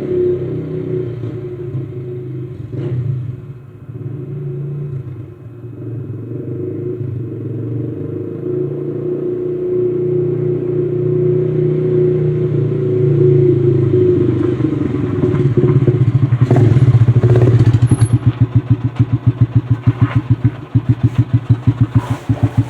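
1985 Honda XR350R's single-cylinder four-stroke engine running steadily at idle after warming up. From about two-thirds of the way through, the exhaust settles into an even pulsing beat that gets louder.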